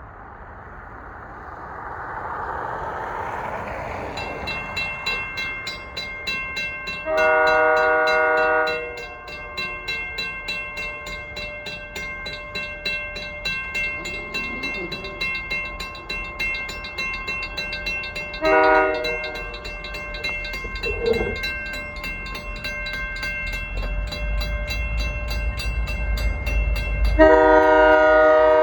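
Diesel freight locomotive approaching a grade crossing, sounding its multi-chime horn: a long blast, a short one about ten seconds later, and another long blast near the end. A crossing bell rings rapidly throughout. The low engine and wheel rumble grows as the train nears.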